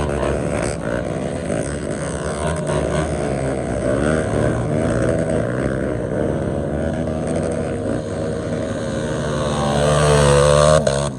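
Several off-road trail motorcycle engines running together, their pitches wavering up and down as throttles are blipped. The sound swells near the end, then drops off suddenly.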